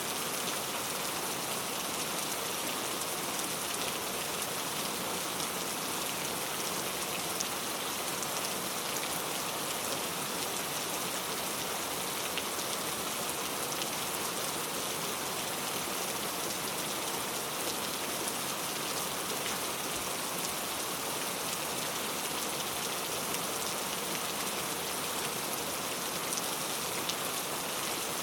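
Steady rain falling, an even hiss with scattered drop ticks, holding at one level throughout.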